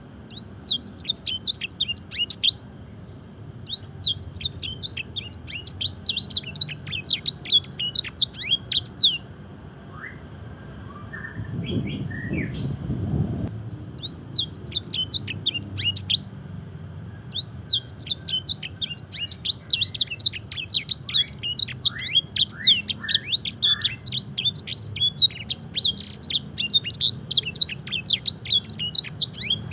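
Domestic canary singing song filled with black-throated canary (blackthroat) phrases: fast trills of rapid down-sweeping notes in bursts of a few seconds, separated by short pauses, with the longest phrase running through the second half. A brief low rumble comes about halfway through.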